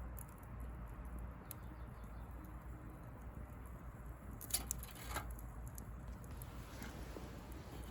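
Bonfire of dry branches burning with a steady low rush and light crackling, with a few sharp pops about four and a half to five seconds in.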